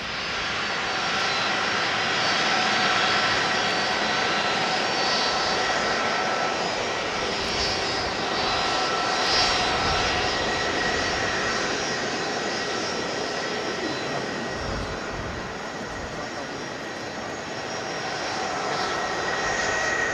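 A Boeing 777-200's twin turbofan engines at takeoff power: a steady jet noise with high whining fan tones, easing a little in the middle and swelling again near the end.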